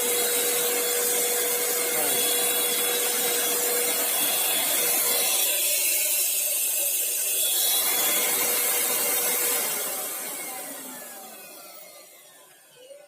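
Paint Zoom handheld electric paint sprayer running with a steady hum and hiss, then switched off and winding down, fading out from about ten seconds in.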